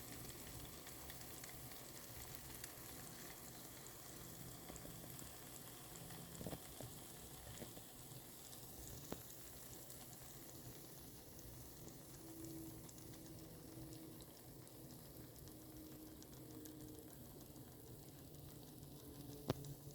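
Faint sizzling and crackling of chicken breast cooking in an air fryer, over a low steady hum. There is a sharp click near the end.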